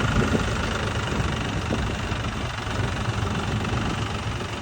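Tractor engine running steadily at idle, a low even rumble.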